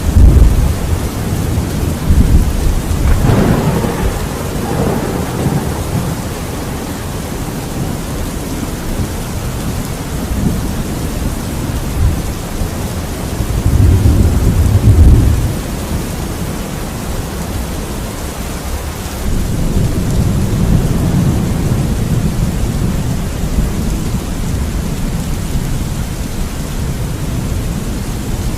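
Thunderstorm: steady rain with repeated rolls of low thunder, the loudest peaks right at the start and about fourteen seconds in, and a longer rumble in the last third.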